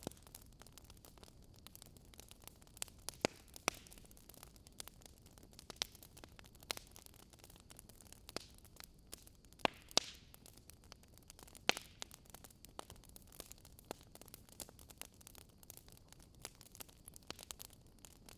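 Wood fire in a fire pit crackling, with irregular sharp pops over a low steady hiss. A few pops stand out louder, around three seconds in and again near the middle.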